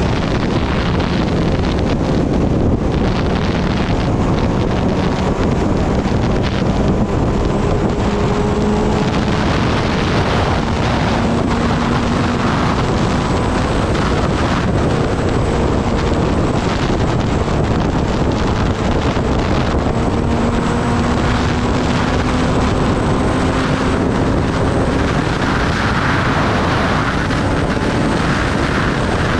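Heavy wind rushing over the microphone of a moving Kawasaki ZX-10R sportbike. Under it the inline-four engine note drifts slowly up and down in pitch.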